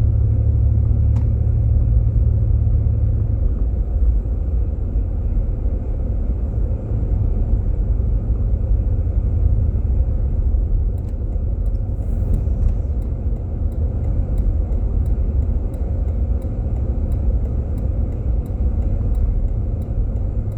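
Steady low rumble of tyre and road noise heard inside a Jeep Grand Cherokee's cabin on a snow-covered road. About halfway through, a faint, even ticking starts, roughly two ticks a second.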